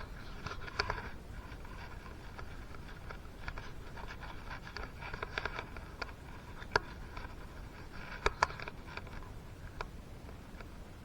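Light clicks and scraping of small metal engine parts being handled and fitted by hand while a two-stroke piston is being installed. Three sharper metal clicks stand out in the second half, two of them close together.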